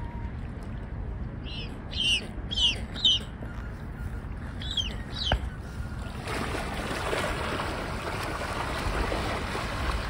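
Short, high bird calls, each falling in pitch: four in quick succession from about a second and a half in, two more around five seconds, over a low rumble. From about six seconds a steady rushing noise, wind or moving water, fills in.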